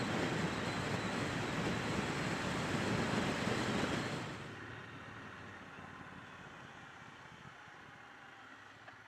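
Wind rush and road noise while riding a Triumph Bonneville T120 motorcycle: a steady roar that drops sharply about four seconds in and stays much quieter after that.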